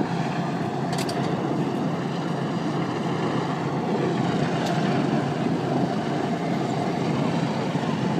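Jet engine noise from BAE Systems Hawk T1 trainers, each powered by a single Adour turbofan, flying a display pass. It is a steady rushing roar with a faint whine gliding in pitch.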